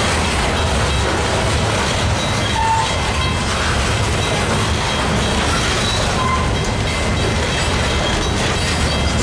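Freight train of two-bay covered hopper cars rolling past: a steady rumble of steel wheels on rail, with a couple of brief high squeaks from the wheels.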